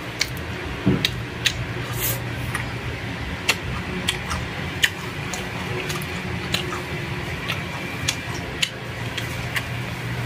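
A person chewing food close to the microphone: irregular sharp, wet clicks and lip smacks, over a steady low hum.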